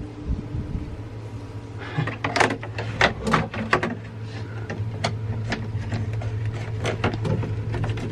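Hatch trim piece being handled and pressed into place overhead: a series of irregular clicks and knocks from about two seconds in, over a steady low hum.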